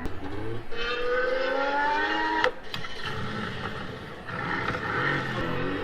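A car engine accelerating hard, its pitch rising steadily for about two seconds and then breaking off abruptly; a second run of acceleration starts near the end.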